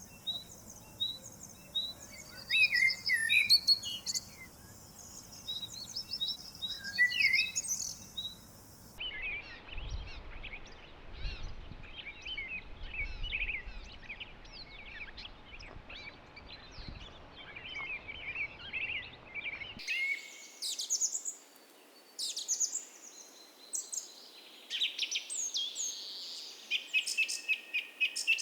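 Several songbirds singing and chirping together in a dawn chorus, many short overlapping whistles and trills. The background changes abruptly about nine seconds in and again about twenty seconds in, as if separate recordings were joined.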